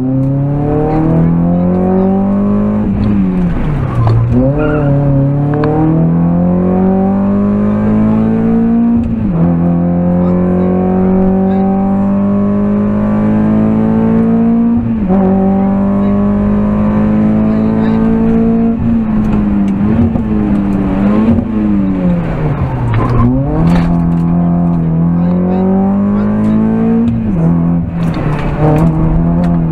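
VW Lupo GTI's 1.6-litre four-cylinder engine heard from inside the cabin, driven hard. It climbs in pitch through each gear and drops at each upshift. Twice the revs fall low and wobble as the car slows for a corner, then pull up again.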